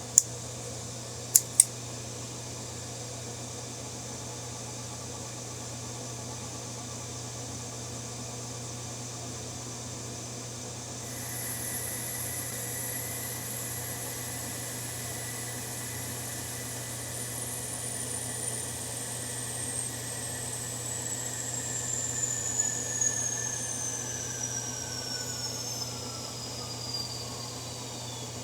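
Small machine tool's electric motor running with a steady low hum, after a couple of sharp clicks early on; about eleven seconds in a high whine starts and slowly glides down in pitch, with light irregular cutting noise partway through, as a small stainless part is machined to length.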